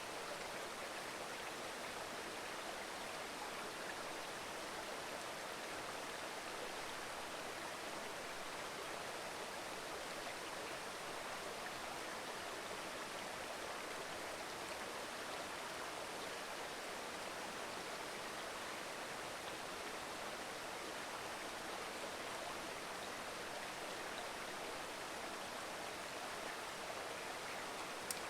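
Mountain river babbling over rocks: a steady, even rush of flowing water. A brief click near the end.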